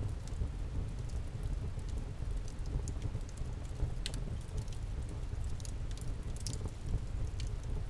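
Wood campfire crackling: scattered sharp pops and snaps, the strongest about four seconds in and again a little past six seconds, over a steady low rumble.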